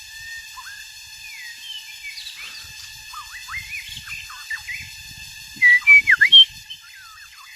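White-rumped shama singing: a run of varied whistled notes and quick rising and falling sweeps, with a loud burst of several rapid notes about six seconds in.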